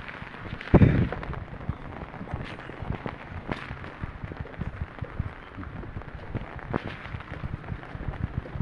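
Irregular sharp pops and taps throughout, with one much louder, deep thump about a second in.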